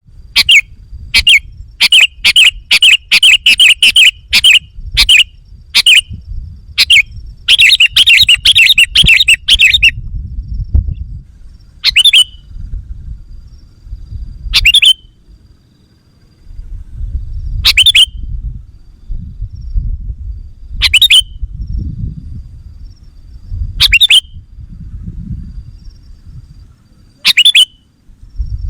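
Sooty-headed bulbul calling loudly: a rapid run of short, sharp chirps for about the first ten seconds, then single chirps about every three seconds. A low rumble sits underneath.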